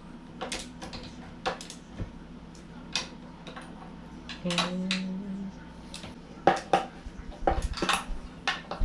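Skateboard truck hardware being tightened by hand: a skate tool and screwdriver clinking against the steel mounting bolts and nuts in irregular metallic clicks, coming thicker near the end.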